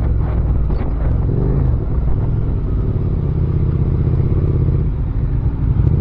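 Motorcycle engine running steadily at low revs, its pitch dipping slightly about a second in, then holding even.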